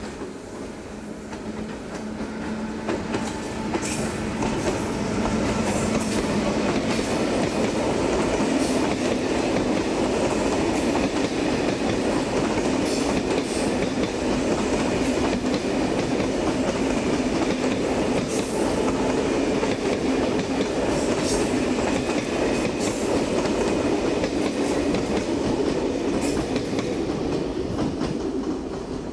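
A train passing close by, its wheels clicking over rail joints. It builds over the first few seconds, stays steady for about twenty seconds, and falls away near the end.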